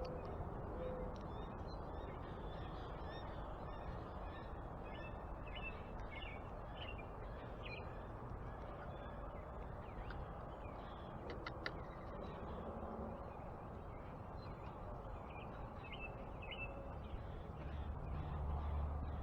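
Backyard birds chirping and calling in short repeated notes over a steady low background rumble. A low hum swells in near the end.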